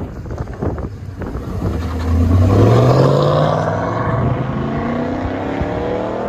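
1998 Pontiac Firebird's 5.7 L LS1 V8 on a straight-piped dual exhaust, accelerating: it gets louder about two seconds in and rises in pitch, then keeps pulling with a slowly climbing note.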